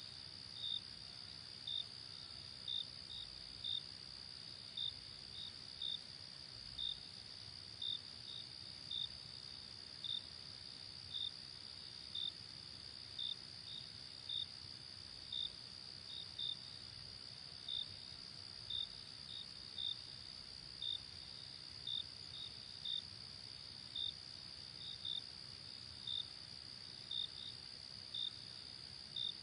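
Night insect chorus: a continuous high trill with a cricket's short, clear chirps about once a second, sometimes in pairs, over a faint steady background hiss.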